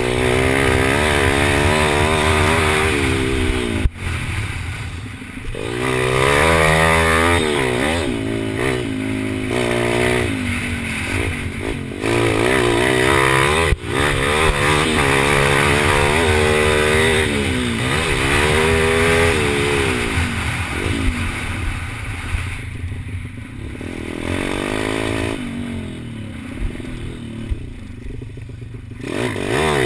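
Kawasaki KLX110 pit bike's small engine racing, its pitch sweeping up again and again under throttle and dropping back between, with a couple of sharp knocks along the way and two quieter off-throttle stretches near the end.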